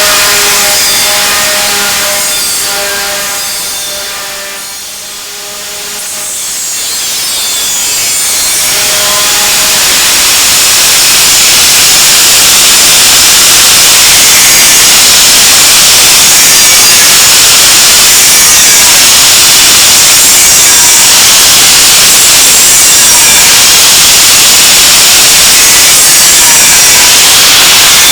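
Wood being sawn: a loud, steady rasping with faint repeated strokes about every second and a half. An engine hum fades out in the first few seconds.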